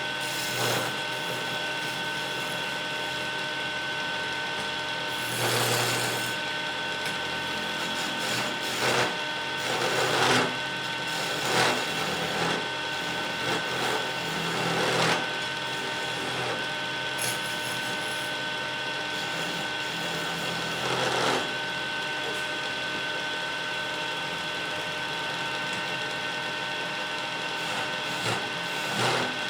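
Wood lathe running with a steady motor hum, while a turning chisel cuts into the spinning wood in short, irregular bursts of scraping every few seconds.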